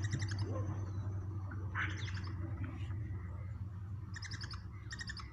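Swallow-winged puffbird calling: four short, rapid high-pitched trills spaced a second or two apart, over a steady low hum.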